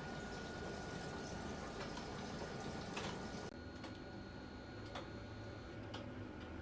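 Panasonic NA-VX9900 drum-type washing machine running its wash, water sloshing in the drum with occasional clicks. About halfway in the sound changes abruptly to a quieter, more even hum with a few faint ticks.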